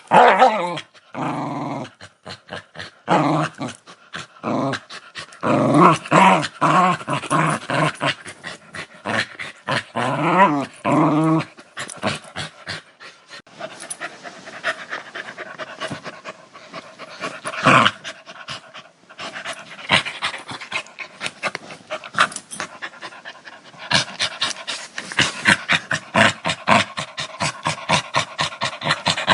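Dog growling aggressively, with pitched, rising and falling growls in the first half. Near the end it becomes a run of rapid pulses, about four a second.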